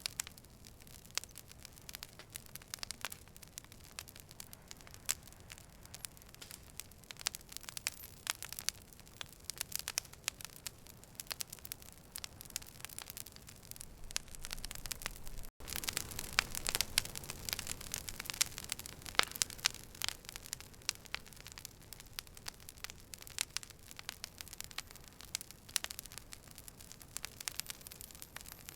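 Campfire burning, wood crackling with frequent sharp pops and snaps over a soft steady hiss. A split-second gap comes about halfway through, after which the crackling is a little louder.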